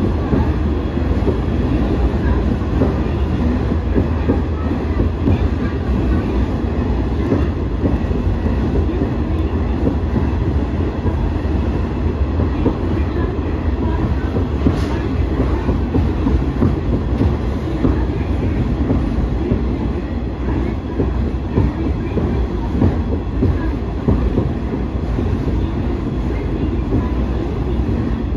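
KRT 8000 series diesel railcar running at speed, heard from inside the car: a steady rumble from its diesel engine and wheels on the rails, with a continual rattle of small clicks from the track.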